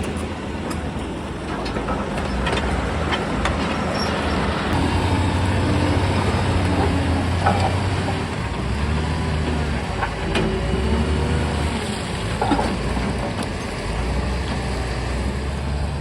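Excavator's diesel engine running under varying load, swelling and easing, with scattered knocks and clatter of rock being worked.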